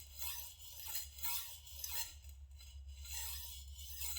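Gyuto kitchen-knife blade stroked back and forth on a diamond sharpening stone under very light pressure, a rhythmic high scraping at about two strokes a second.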